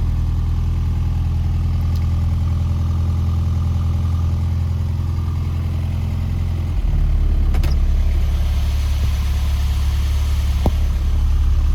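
1982 Mini's A-series four-cylinder engine idling cold with the choke pulled out. About two thirds of the way through, the idle shifts and gets a little louder. Two brief clicks come after it.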